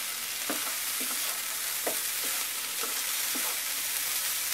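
Boiled, diced French beans sizzling in a little hot oil in a frying pan over a high flame while being stirred with a spatula: a steady sizzle broken by a spatula scrape or toss about once a second.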